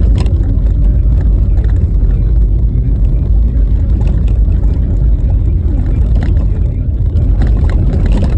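Car driving on a rough, snow-covered road: a steady loud low rumble of tyres and road noise, with a few scattered knocks and rattles from the bumpy surface.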